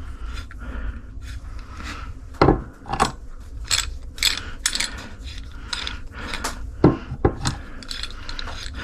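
Metal tools and parts being handled at a shop bench, giving a string of irregular clinks, knocks and rattles, some of them ringing briefly.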